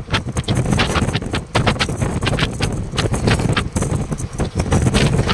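Passenger train running at speed, heard from an open window: a steady low rumble of wheels on the rails with irregular clatter and knocks, and wind on the microphone.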